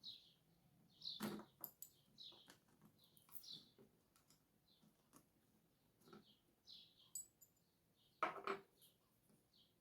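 Faint clicks and taps of small RC truck suspension parts and tools being handled, with two louder knocks, about a second in and near the end. Short, faint high chirps recur throughout.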